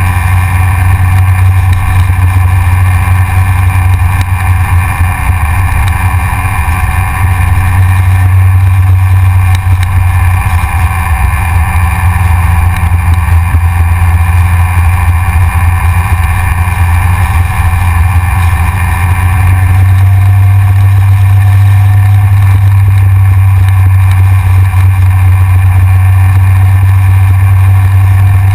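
Yamaha XJR motorcycle's inline-four engine running steadily under way, heard from a camera mounted on the front of the bike; it gets a little louder about twenty seconds in.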